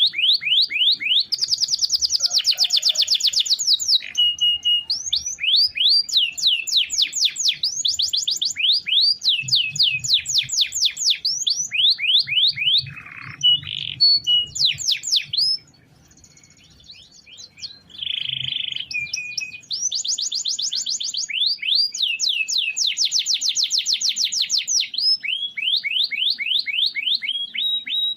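Canary singing long rolls: rapid trains of repeated sweeping notes, with a short pause a little past halfway.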